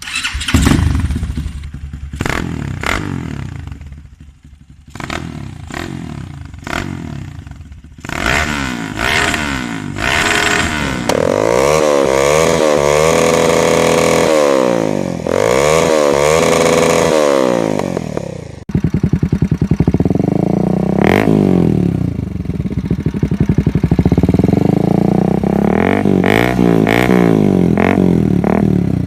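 Bajaj Pulsar 200-series motorcycle single-cylinder engines being revved through their exhausts in a run of short clips, with sharp throttle blips over the first several seconds, then longer revs that climb and fall.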